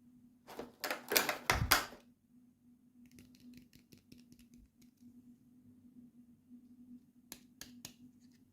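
Hands unboxing small plastic toys: a burst of rustling and clatter of plastic packaging about half a second in, then a run of quick light clicks, and three sharp clicks near the end. A faint steady hum sits underneath.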